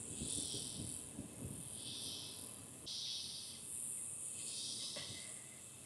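Faint insect chorus: buzzing pulses of under a second that repeat about every second and a half, over a steady high hiss.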